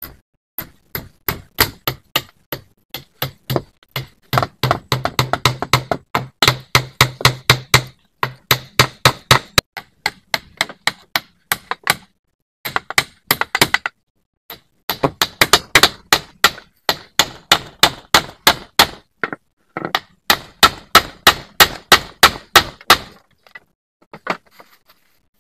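A rapid series of sharp hand-tool blows, about three to five a second, in several runs of a few seconds with short breaks, stopping shortly before the end.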